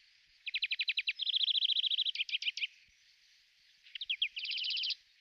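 A small songbird singing: quick trilled phrases of high notes. One long phrase comes about half a second in and a shorter one near the end.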